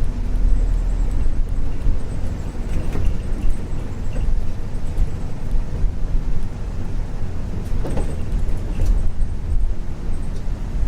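Isuzu U-LV224N route bus with a 6QB2 diesel engine and direct-drive five-speed manual gearbox, running on the road, heard from inside the cabin: a steady low engine drone with road noise and a few light rattles, the clearest about 8 seconds in.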